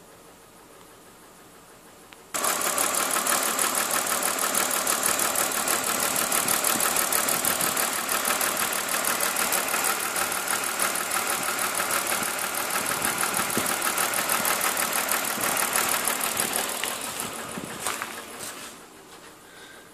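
BMW M52TUB20 2.0-litre straight-six engine starting suddenly about two seconds in and running with a fast, even pulsing, misfiring on cylinder 6, then dying away near the end.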